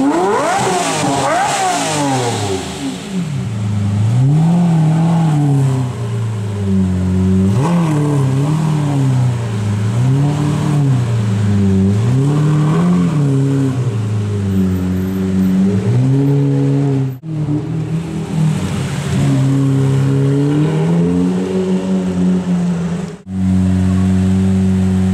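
Lamborghini Murciélago LP640's 6.5-litre V12 through a Tubi exhaust, revved over and over: a high rev at the start, then blips that rise and fall every couple of seconds. Near the end it settles to a steady idle.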